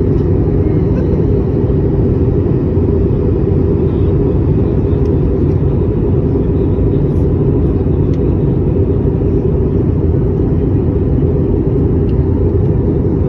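Steady low rumble of a passenger airliner's cabin in flight: engine and airflow noise, even and unchanging.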